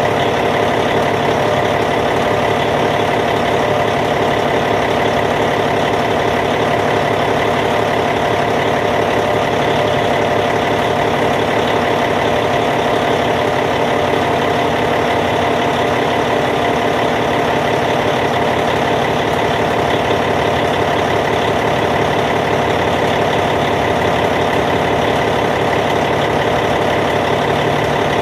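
Caterpillar C15 inline-six diesel engine of a D8T bulldozer idling steadily.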